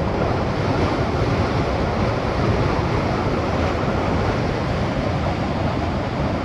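Steady rush of river water pouring over the falls and under the bridge, a dense, even noise with no breaks.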